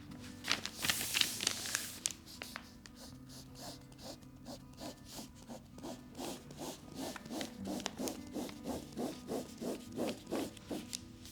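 Repeated hand rubbing strokes on a surface, about three a second and growing stronger toward the end, after a brief burst of scratchier rubbing near the start.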